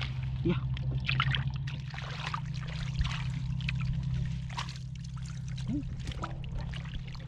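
Water splashing and trickling in short irregular strokes over a steady low hum.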